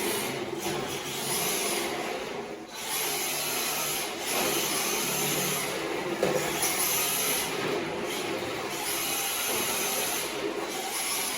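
Electric RC drift car on rubber tyres driving hard: the motor and drivetrain whine in surges as the throttle is worked, easing off briefly about three, eight and ten seconds in, with the tyres scrubbing on the floor.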